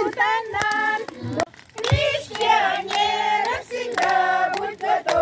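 Children's voices singing together in held, wavering notes, with sharp claps or clicks through it.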